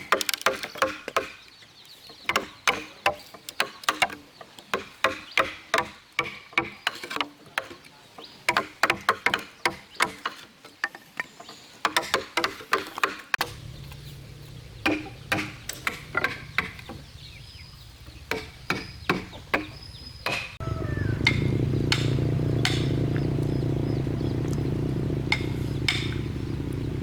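Repeated hammer blows on wood, about two or three a second, for the first half. About halfway a motor starts running with a steady low hum, which gets much louder about three quarters in, while scattered knocks go on over it.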